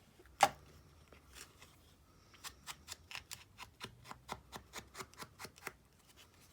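A single sharp click, then a run of quick, light, even taps on paper, about five a second for some three seconds: paper edges being dabbed with Tim Holtz ink.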